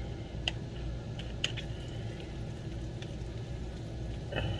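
A utensil stirring a soft mixture of potato, egg and cheese in a bowl, with a few light clicks against the bowl over a steady low hum.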